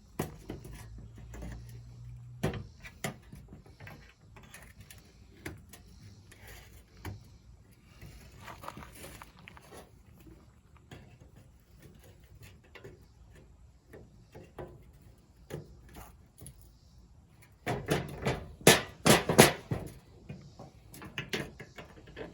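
Hand tools and small metal parts being handled while a lamp's mounting tabs are bent and fitted: scattered clicks and taps. About eighteen seconds in comes a short run of louder knocks and rattles.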